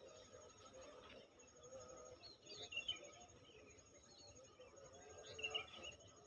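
Faint small birds chirping over quiet countryside ambience, with two short bursts of chirps about two and a half and five and a half seconds in.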